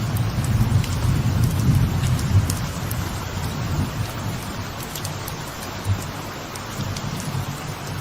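Light rain falling steadily on a veranda, with scattered sharp drip ticks. A low thunder rumble comes in at the start, swells over the first few seconds and then fades.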